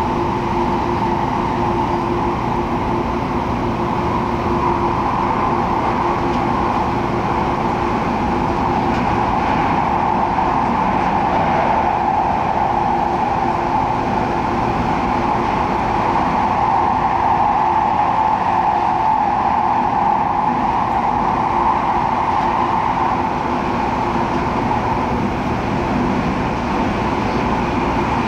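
Cabin noise aboard an MTR Airport Express CAF train: a steady running rumble with a broad hum that swells slightly in the middle and eases near the end.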